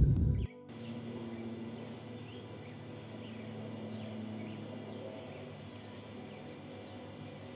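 A loud low rumble cuts off abruptly about half a second in. Then faint, scattered bird chirps sound over a soft, steady, low ambient-music drone.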